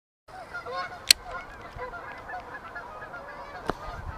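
A flock of geese honking, many short calls overlapping, with a sharp click about a second in and another near the end.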